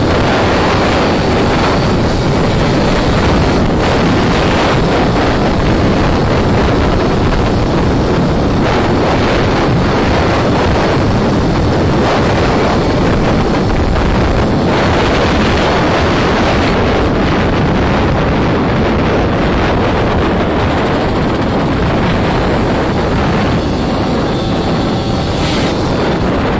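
Yamaha DTR 125 two-stroke trail bike engine running under way, heavily masked by wind buffeting the microphone; a steady loud rush throughout.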